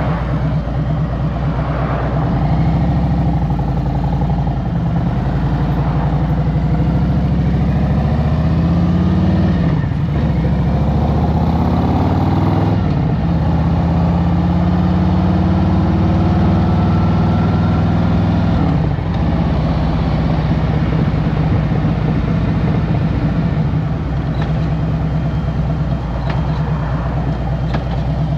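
2023 Harley-Davidson Road Glide Special's Milwaukee-Eight V-twin engine under way. It climbs in pitch, drops sharply twice as it shifts up through the gears, holds a steady pitch, then falls back about two-thirds of the way in.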